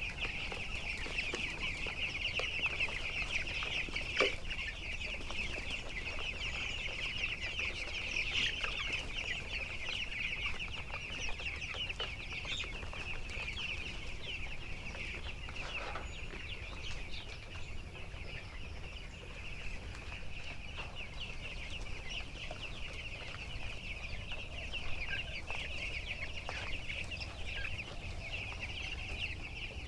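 A large flock of 13-day-old broiler chicks peeping continuously: a dense chorus of many overlapping high cheeps, with a faint knock or two.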